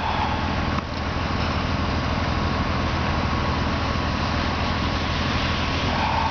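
Engine of a heavy work vehicle idling steadily, a low even rumble with a faint steady whine above it.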